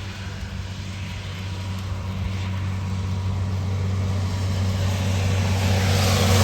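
A heavy truck's diesel engine approaching, its steady low drone growing louder throughout, with road noise swelling near the end as it draws close.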